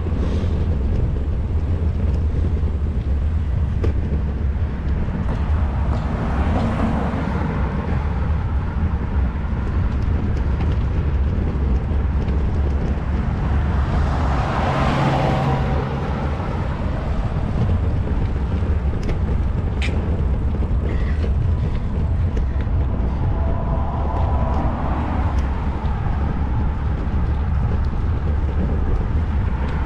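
Steady low wind rumble on a GoPro's microphone while cycling. Road traffic swells up and fades three times, about 7, 15 and 25 seconds in.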